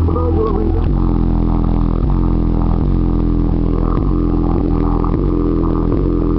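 Bass-heavy music played loud through a car stereo's subwoofer, heard inside the car: deep sustained bass notes that change pitch about once a second.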